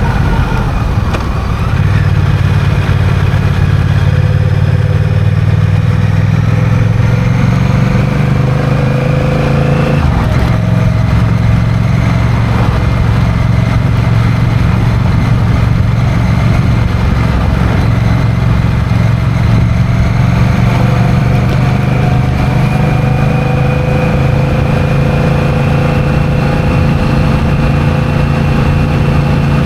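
Honda CMX1100 Rebel's parallel-twin engine running while the bike is ridden at a fairly steady throttle, its note rising and falling slowly, with a change in engine note about ten seconds in.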